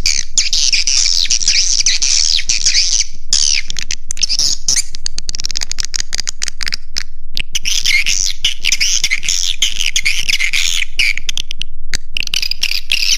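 Edible-nest swiftlet lure recording: dense, high twittering chirps from many birds, broken about four seconds in by several seconds of rapid clicking and again briefly near the end, then the twittering resumes.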